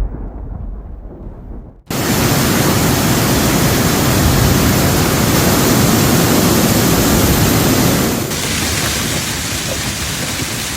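Low rumble of thunder, then, after an abrupt cut about two seconds in, a loud, dense, steady hiss of hail and rain pelting down. The hiss drops a little after another cut about eight seconds in.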